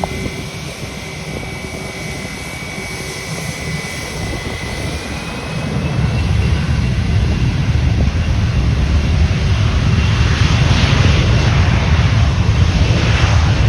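An airliner's engines, with a high whine that rises slightly, then a deep rumble that grows louder about halfway through and stays loud as the aircraft comes close.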